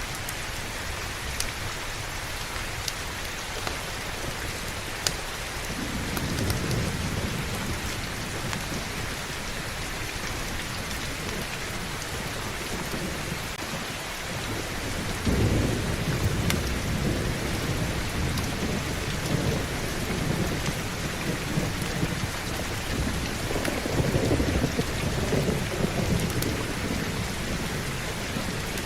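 Steady heavy rain with low thunder rumbling in three rolls: a short one about six seconds in, a longer, louder one from about fifteen seconds, and another around twenty-four seconds.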